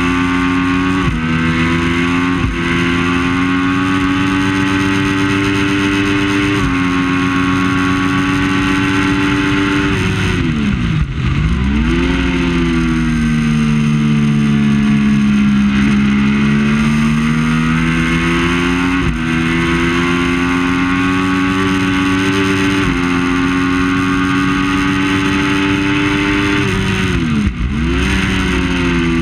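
Triumph Daytona 675 three-cylinder engine at race pace. Its pitch steps down at each upshift, then falls sharply twice as the rider brakes and downshifts for a corner, about eleven seconds in and again near the end, before it pulls back up. A steady rush of noise lies under the engine.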